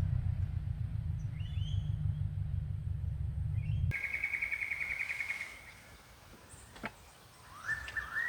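A heavy, pulsing low rumble with faint bird chirps above it, cutting off abruptly about four seconds in. Then rainforest birds call in a quieter setting: a fast trill, a couple of sharp clicks, and a rising call near the end.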